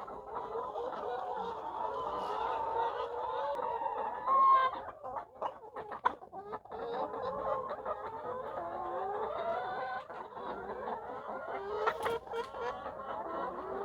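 A flock of layer hens clucking, many calls overlapping steadily, with one louder call about four and a half seconds in. A few sharp clicks or knocks come through in the middle and again near the end.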